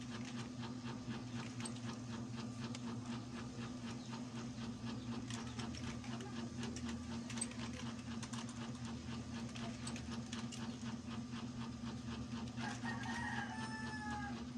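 A steady mechanical hum with fast, fine clicking. A rooster crows once near the end.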